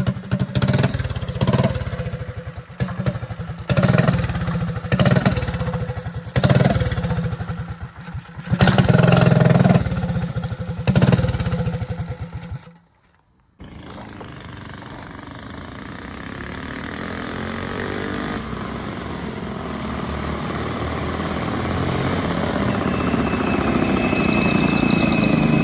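Mini bike's small engine revved in repeated short blips for about twelve seconds. It breaks off for a moment, then a steady engine sound grows gradually louder through the second half.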